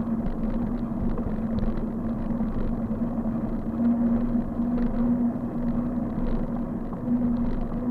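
Road and wind rumble from a moving bike, with a steady hum and scattered small rattling clicks.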